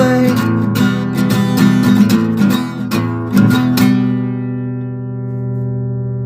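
Acoustic guitar strummed in quick strokes for about four seconds, then a final chord left ringing and slowly dying away.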